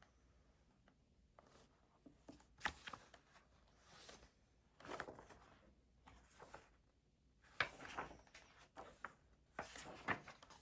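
Faint pen scratching on paper in short irregular strokes, with a few sharp ticks.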